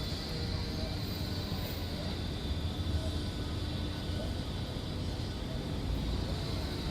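Steady low engine rumble with no distinct crashes or impacts.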